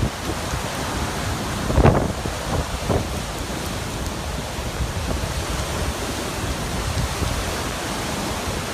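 Steady roar of wind and surf, with wind buffeting the microphone and a louder surge about two seconds in.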